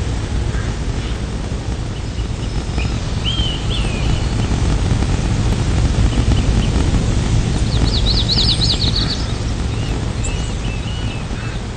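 Outdoor ambience: a steady low rushing noise with birds chirping over it, a quick trill about eight seconds in and a run of short chirps near the end.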